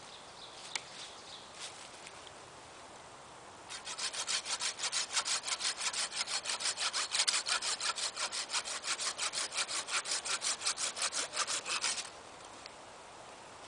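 Hand saw cutting through wood in quick, even back-and-forth strokes for about eight seconds, starting a few seconds in and stopping abruptly near the end.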